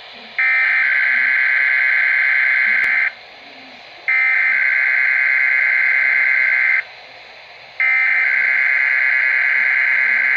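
Three bursts of harsh, warbling data tones, each lasting about two and a half seconds with about a second's gap between them. This is the SAME digital header that opens a Weatheradio Canada emergency alert, heard through a weather radio receiver.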